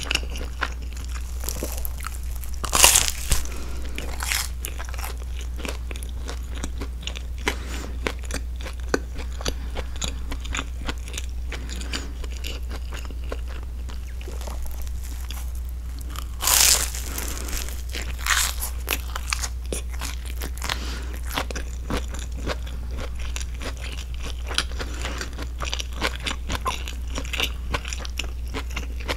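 Chewing and crunching of a grilled broccoli cheese sandwich's toasted crust, with many small mouth clicks throughout. Two louder bursts come about 3 seconds and about 16 seconds in.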